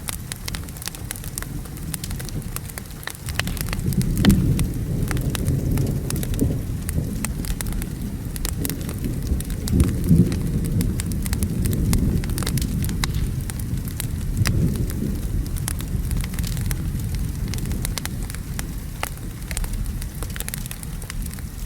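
Wood fire crackling in a fireplace over steady rain, with low thunder rumbling in swells, loudest about four and ten seconds in.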